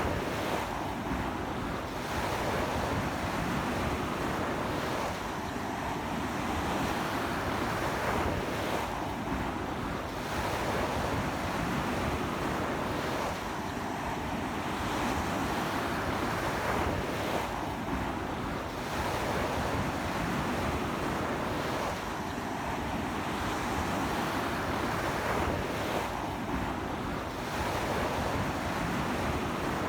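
Sea waves washing onto a beach in a strong sea wind: a continuous rush of surf that swells and eases every few seconds.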